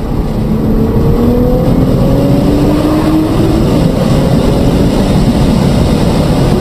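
A vehicle's engine pulling and slowly rising in pitch, under loud, steady wind and road noise.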